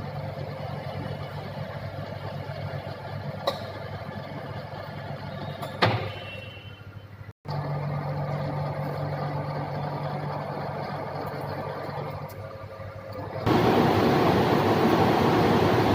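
SK 12 vertical turning lathe running with a steady machine hum, with a couple of sharp clicks. Near the end a much louder, even rushing noise sets in.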